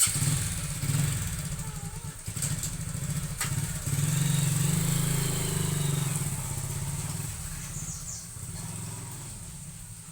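A vehicle engine running, starting suddenly, loudest around the middle, then fading away toward the end.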